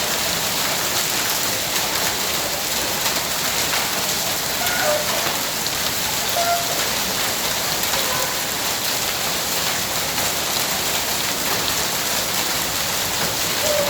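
Hailstorm: heavy rain and hail pelting down in a steady, dense hiss.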